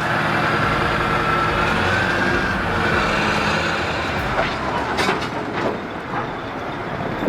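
Caterpillar 988B wheel loader's diesel engine running hard, with a steady whine over it that wavers slightly in pitch. A few metallic clanks come between about four and a half and six seconds in.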